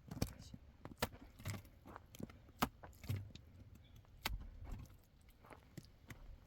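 Irregular light clicks and knocks, about one or two a second, over a low rumble.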